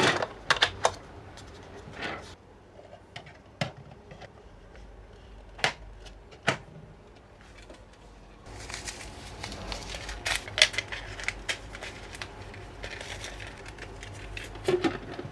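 Plastic parts of an automatic pet feeder being handled and fitted together: scattered sharp clicks and knocks, joined by steady rustling and quicker clicking from about halfway through.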